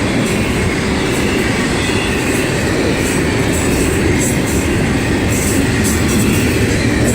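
Freight train cars rolling past, a steady loud rumble of wheels on rail with short high-pitched squeals now and then.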